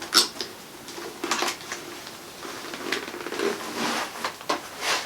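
A motorcycle helmet being handled and put on: a string of knocks, clicks and rustles, the loudest about a moment in.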